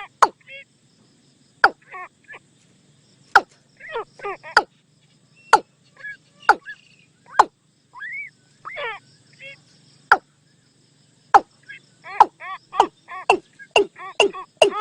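Watercock calls used as a decoy lure: sharp clicks mixed with short hollow, arched notes, spaced out at first and then running into a quick series near the end. A faint low hum lies underneath.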